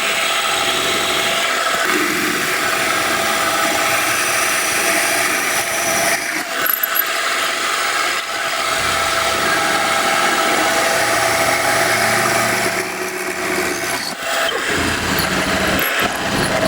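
A power tool running steadily under load with a whine, its sound easing briefly a few times.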